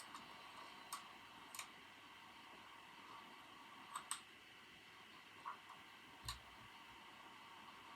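Occasional computer keyboard keystrokes, about six scattered soft clicks with pauses between them, over a faint steady background hum.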